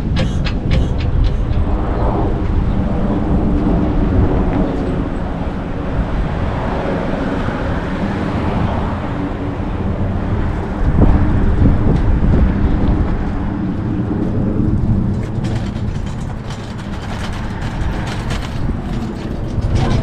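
Outdoor traffic noise: a motor vehicle running by with a steady pitched drone, over a constant low rumble of wind and rolling noise on a moving bicycle's microphone.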